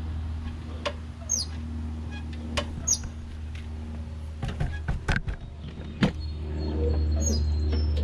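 A bird repeats a short, falling high chirp about every second and a half over a steady low hum. A few sharp clicks and knocks come about five seconds in.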